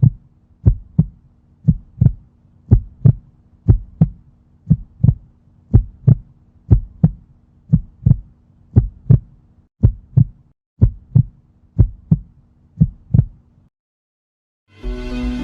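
Heartbeat sound effect: pairs of low thumps, about one double beat a second, over a faint steady hum. It stops about 13 seconds in, and music starts near the end.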